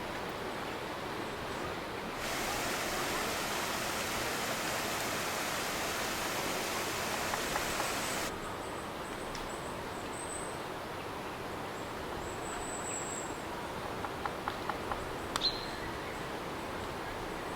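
Steady outdoor ambience of rushing noise, fuller and brighter for about six seconds near the start before dropping back abruptly. A couple of short, high bird chirps come through, and a run of light clicks ends in one sharper click near the end.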